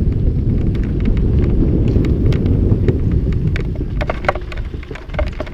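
Wind buffeting the microphone in a loud low rumble during a mountain-bike descent, with the clatter of the bike and tyres over rough trail. The rumble eases from about four seconds in, leaving sharp clicks and rattles.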